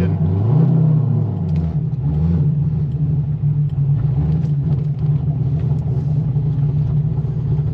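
C6 Corvette Z06's LS7 V8 with a straight-piped titanium exhaust, heard from inside the cabin while driving: a loud, deep drone that rises and falls in pitch during the first two seconds, then settles into a steady note.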